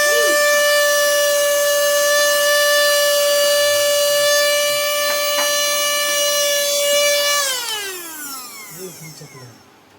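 Handheld mini vacuum cleaner's motor running with a steady high whine. About seven seconds in it is switched off and winds down, its pitch falling away.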